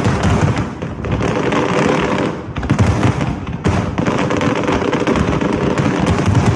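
Aerial fireworks display going off in a rapid, continuous barrage of bangs and crackling, with short lulls a couple of times.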